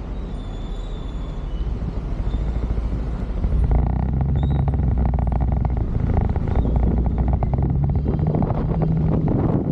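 Motorcycle engine running on the road with wind rushing over the microphone. About three and a half seconds in, the engine grows louder.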